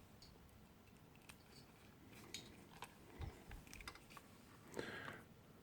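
Faint scattered clicks, light taps and a soft rustle of multimeter test leads and clips being handled and fitted to a motorcycle battery's terminals, with a low knock about three seconds in.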